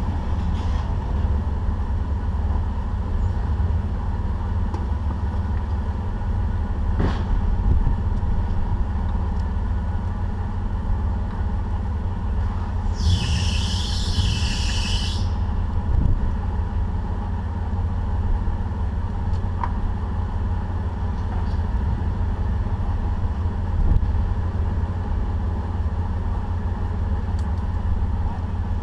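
A 4x4 Jeep crawling off-road, its engine and drivetrain making a steady low rumble. About halfway through comes a brief high squeal lasting about two seconds.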